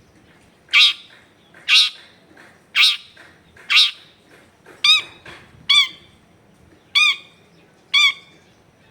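Long-tailed shrike calling loudly, short calls about once a second: four harsh, raspy calls followed by four more ringing, nasal ones.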